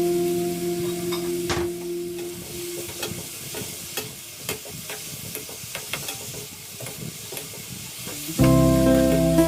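Food sizzling in a frying pan as it is stir-fried, with many sharp clicks of a utensil against the pan. Background music fades out over the first two seconds and comes back loudly near the end.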